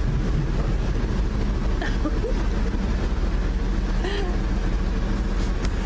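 An old truck's engine running steadily with a low rumble, its muffler worn out.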